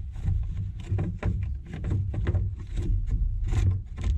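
Irregular clicks and knocks of tools and parts being handled during an A/C fan motor replacement, over a steady low rumble.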